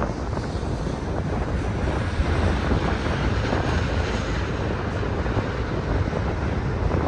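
Freight train rolling past with its mid-train diesel locomotives (DPUs), a steady rumble mixed with strong wind buffeting the microphone.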